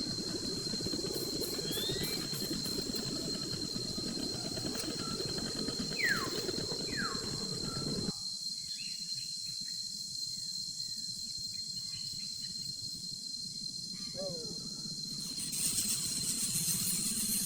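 Outdoor ambience: a steady high-pitched insect drone, with a few short falling bird chirps. A low rumbling noise cuts off suddenly about halfway through.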